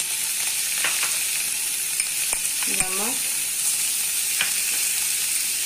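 Ghee sizzling steadily in a non-stick pan as a paneer, onion and green-chilli stuffing fries in it, with a few light taps of a wooden spatula against the pan.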